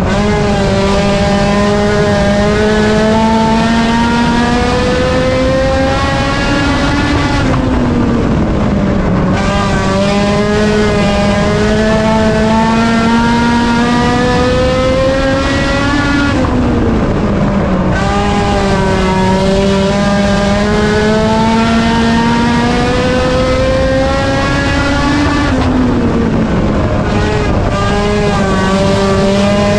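A single race car engine held at high revs. Its pitch climbs steadily for several seconds, then drops sharply as the driver lifts, three times about nine to ten seconds apart: laps of a short oval, with a lift for each pair of corners.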